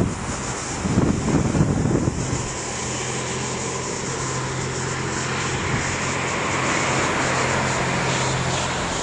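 Gusts of wind buffet the microphone for the first two seconds. Then a steady, low engine drone sets in and grows louder towards about seven seconds in, before easing slightly near the end.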